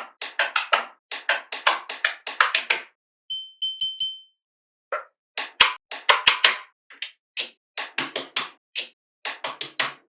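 Small magnetic balls snapping together as they are set in place: runs of sharp clicks, several a second, with short gaps between runs. About three seconds in there are four short high-pitched beeps.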